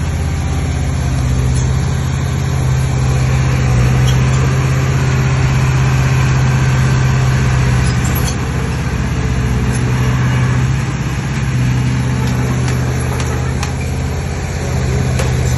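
Heavy diesel engine of earthmoving machinery running steadily, swelling and easing a little, with a few faint clinks near the end.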